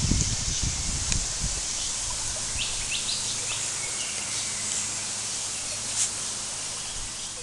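Steady outdoor background noise with a few short, high bird calls about three seconds in and a single sharp click about six seconds in.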